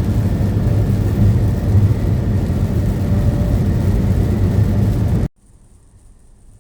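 Steady in-cab drone of a truck driving down the road: a low engine hum under tyre and road noise. About five seconds in it cuts off abruptly, leaving only a faint hiss.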